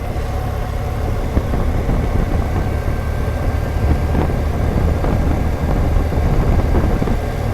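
BMW R1200GSA's boxer-twin engine running steadily while the motorcycle is ridden at an even pace.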